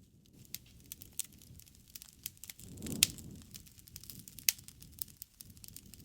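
Campfire crackling, with scattered sharp pops over a soft low rumble of flame. The rumble swells about halfway through with the loudest pop at its peak, and another sharp pop comes about a second and a half later.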